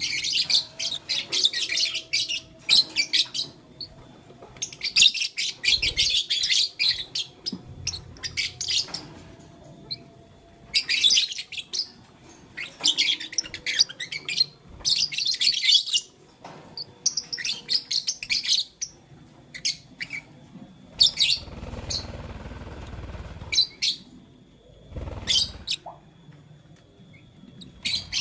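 Pet lovebirds chirping: rapid high twittering in short bursts of about a second, repeated every couple of seconds. Around three quarters of the way through there is a brief rustling noise.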